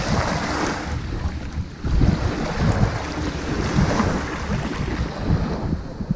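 Ocean surf washing onto a sandy beach, swelling and fading, with wind buffeting the microphone.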